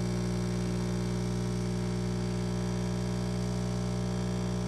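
L'Or pod coffee machine humming steadily while it brews a full-size cup, a constant low drone that is fairly loud.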